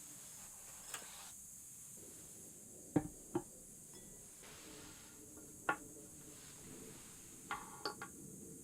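A few light knocks and clinks of small hard objects being handled: two close together about three seconds in, another a little later, and a quick cluster of clicks near the end.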